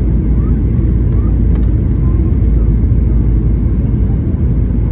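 Steady, loud low rumble of a jet airliner's engines and airflow, heard inside the passenger cabin.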